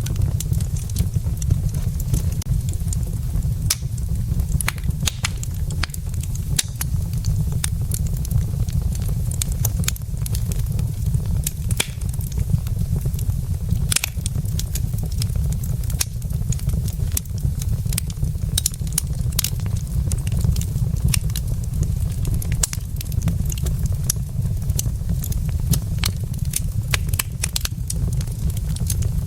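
Wood fire burning in a fireplace: frequent sharp crackles and pops from the burning logs over a steady low rumble.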